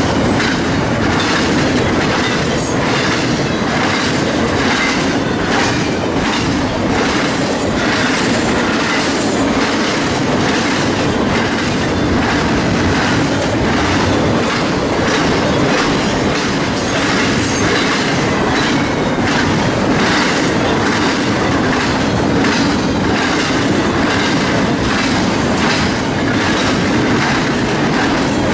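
Double-stack intermodal freight train's well cars rolling past close by: steady noise of steel wheels on rail with an even, repeating clickety-clack of wheel sets over the rail.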